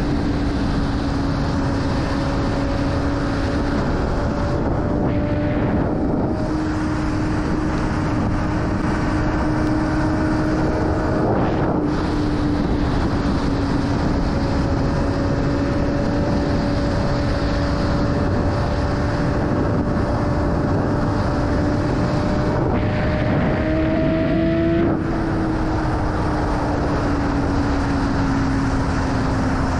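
BMW S1000RR inline-four engine running at steady high revs under way, heard with heavy wind rush. The engine's pitch holds nearly level, with brief breaks in the sound about 6 and 12 seconds in and again near 25 seconds.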